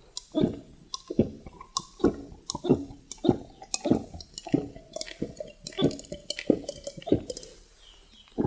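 Close-miked chewing of food, a steady chew about every two-thirds of a second, each with small mouth clicks.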